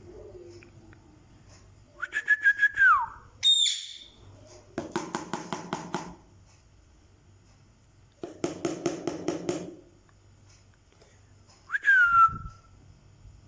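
Parrot whistling and calling: a held whistle that slides down in pitch, a short high whistle, two bursts of rapid pulsed chattering calls, then a last whistle that falls in pitch near the end.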